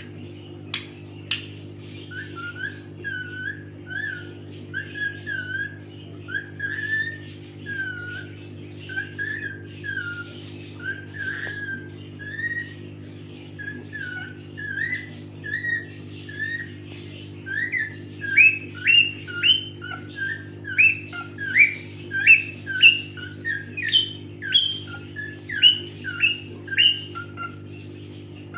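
Pet parrot giving a long run of short, repeated whistled chirps, about one or two a second, which turn louder and higher-pitched about two-thirds of the way through. A steady low hum runs underneath.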